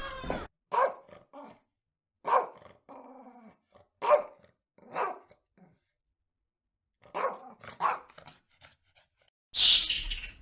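A dog barking: a series of short barks at uneven intervals, some single and some in quick pairs. Near the end comes a short, loud burst of rushing, hiss-like noise.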